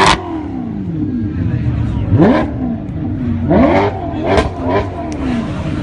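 A sports car's engine revved in about four sharp throttle blips, each climbing quickly in pitch and falling back to idle.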